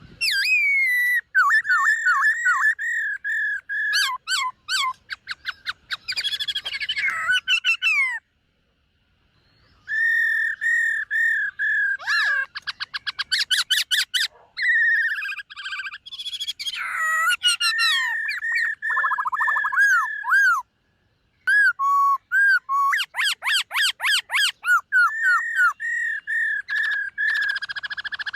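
Black-throated laughingthrush singing loud, clear whistled phrases mixed with fast trills. It sings in three long bouts, with short pauses about 8 seconds and 21 seconds in.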